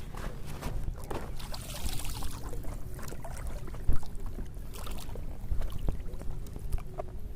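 Water sloshing and splashing as someone moves through it handling fishing gear, with scattered knocks and a sharper knock about four seconds in.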